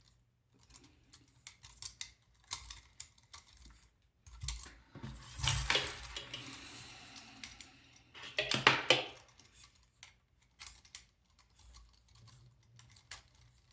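Small hardware and a hand tool clicking and rattling while screws on a robot kit's body are tightened by hand, with a longer scraping rustle about five seconds in and a louder clatter near nine seconds.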